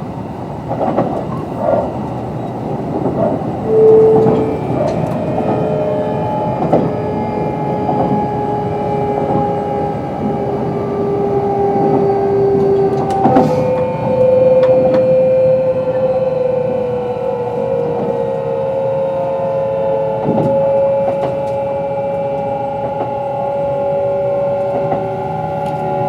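Kintetsu 22600 series electric train running, with the whine of its Mitsubishi IGBT-VVVF inverter and traction motors in several steady tones. The tones jump to new pitches a few times in the first half, then one slowly rises from about halfway. Wheel clicks and knocks over rail joints sound throughout, with a louder knock about halfway.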